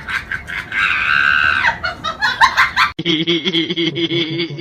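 A person laughing in short bursts and letting out a long high-pitched shriek. An abrupt cut about three seconds in switches to a steadier, lower drawn-out sound.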